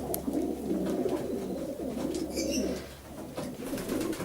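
Several racing pigeons cooing in the loft, their calls overlapping.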